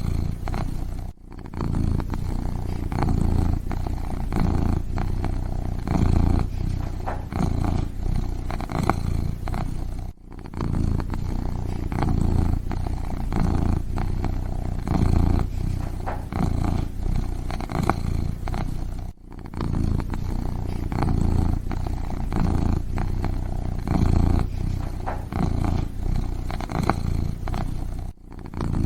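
A kitten purring steadily in close, even pulses, with a short break about every nine seconds.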